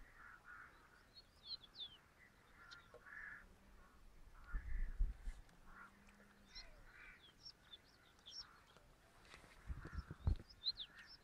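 Faint birds calling: quick high chirps throughout, with lower, hoarser calls in between. A few low thumps come about halfway through and again near the end.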